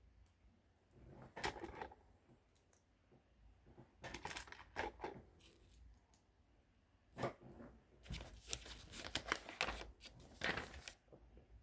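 Small plastic LEGO pieces clicking and rattling as they are handled and pressed together, in short bursts about a second and a half in, around four to five seconds in, and almost continuously from about seven to eleven seconds.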